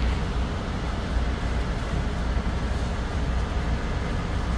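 Steady low rumble of a semi-truck's engine and running noise, heard from inside the cab.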